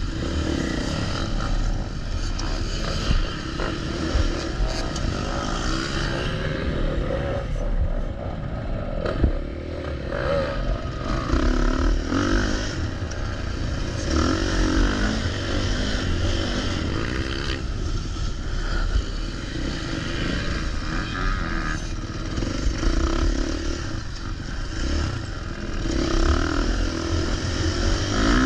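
Motocross dirt bike engine revving up and down as the bike is ridden.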